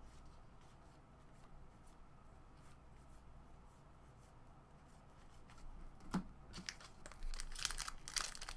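Foil wrapper of a trading-card pack being torn open and crinkled, starting with a knock about six seconds in after a stretch of faint handling clicks.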